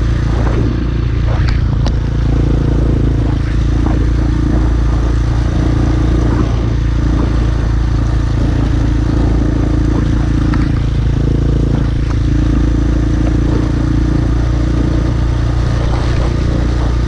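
Small single-cylinder pit bike engine running at steady, nearly constant revs while riding and towing a second bike on a rope, with rushing wind noise.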